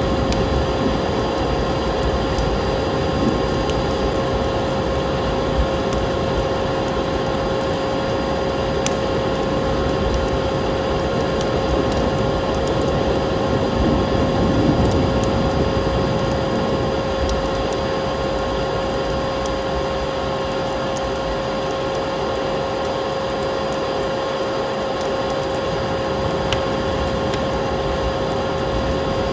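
Wood fire crackling with scattered sharp pops over a steady rushing noise and a constant, unchanging hum.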